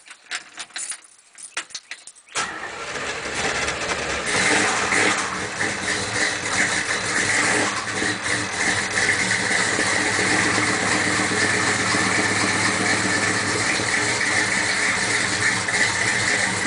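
Cold start of a 406 cubic-inch small-block Chevy V8 with a Comp 305H cam, through a 2.5-inch exhaust with Thrush two-chamber mufflers: a few light clicks, then the engine fires about two seconds in, runs up in revs for a couple of seconds, and settles into steady running.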